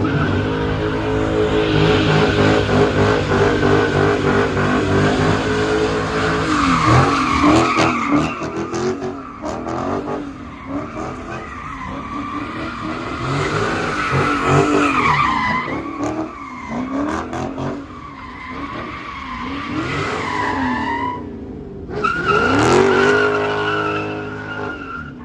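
A car spinning its tyres in burnouts or donuts: the engine revs up and drops again and again while the tyres squeal, with a brief lull shortly before the end.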